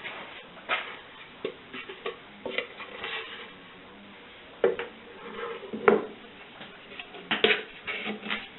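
Scattered knocks and clinks of sand-casting mold parts being handled and set back together, a few of them with a short metallic ring.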